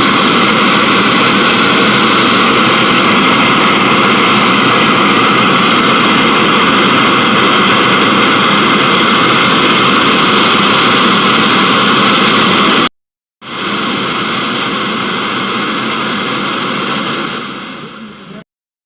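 Untuned FM radio static, a steady loud hiss, played through a speaker driven by the second channel of a repaired 4440-IC amplifier: that channel is now passing sound. It cuts out briefly about two-thirds of the way in, comes back, then fades out near the end.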